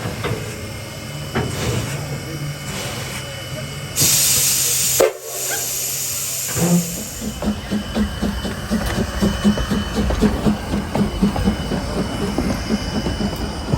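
Steam locomotive hissing loudly as it vents steam for about a second, then working with a steady run of exhaust chuffs, about three a second.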